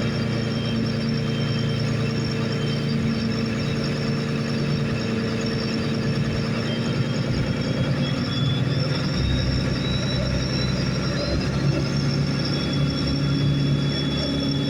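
Pilot boat's engine running steadily with a steady hum; from about nine seconds in the low rumble gets heavier and the engine note shifts up slightly.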